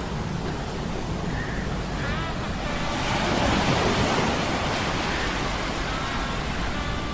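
Sound-effects mix of a low, steady machinery hum from metal gears under stormy sea surf and wind; a wave surges up about three seconds in and falls away by five seconds. Faint short squeaks sound now and then over it.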